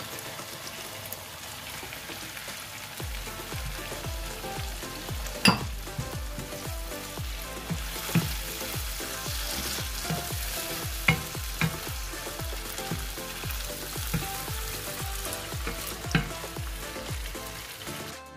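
Onion, tomato and shrimp sauce sizzling in a frying pan as a wooden spatula stirs it, with a few sharp knocks, the loudest about five seconds in. Background music with a steady beat runs underneath from about three seconds in.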